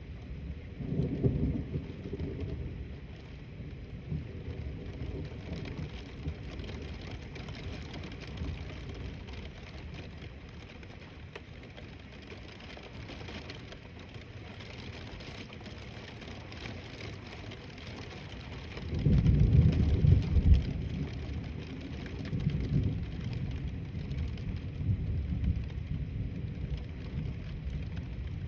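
Thunder rumbling twice over a steady hiss of rain. There is a short rumble about a second in, then a louder, longer one about two-thirds of the way through that trails off slowly.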